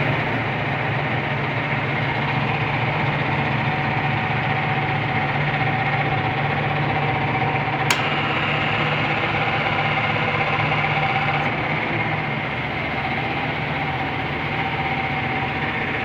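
Ford Explorer 4.0 L V6 EFI engine idling steadily. There is a single sharp click about eight seconds in, and the low hum eases off slightly near twelve seconds.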